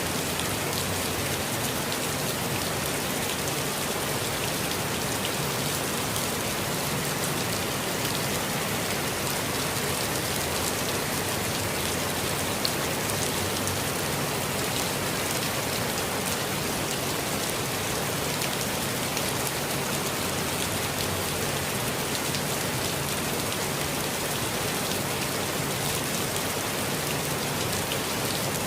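Steady rainfall pattering on leaves and ground in a forest, an even hiss of many drops with no pauses or change in strength.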